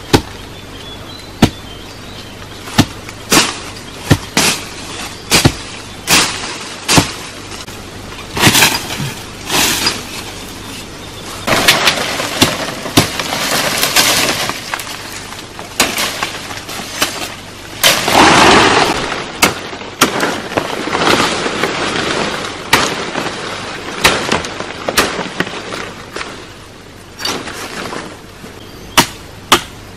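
Wood being chopped with a blade: a run of sharp chopping strikes, about one a second, with longer noisy stretches in the middle.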